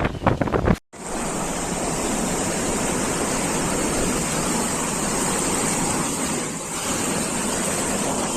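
Wind gusting against the microphone, cut off abruptly under a second in, then a steady, even rushing noise, of the kind made by heavy surf, floodwater or strong wind.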